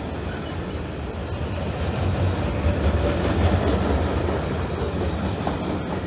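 Freight train of covered wagons rolling past: the wheels and bogies make a steady low rumble that swells a little in the middle.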